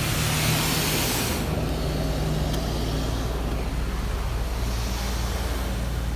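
PDQ LaserWash 360 Plus touchless car wash spraying water onto the car during its spot-free rinse pass: a steady hiss of spray, loudest for the first second or so, over a continuous low hum.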